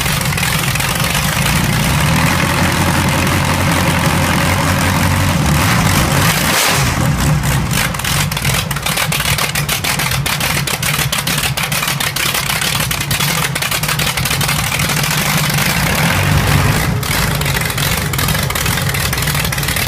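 Restored World War I Hispano-Suiza V8 aero engine in a 1921 Ventnor raceboat, running loud. Its note changes about seven seconds in, after which a rapid run of sharp pulses comes through.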